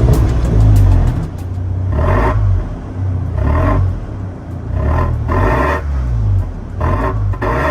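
Volkswagen EA888 turbocharged four-cylinder engine revving through an MS-R valved cat-back exhaust, a deep exhaust note whose pitch rises and falls several times.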